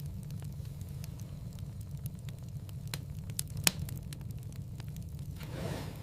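Wood fire crackling in a fireplace: a steady low rumble of burning with scattered pops and snaps, the sharpest a little past halfway, and a brief soft hiss of flame near the end.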